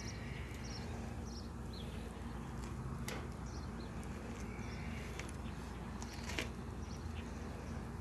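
Small birds chirping in short, scattered calls over a steady low hum, with two sharp clicks, one about three seconds in and one near the end.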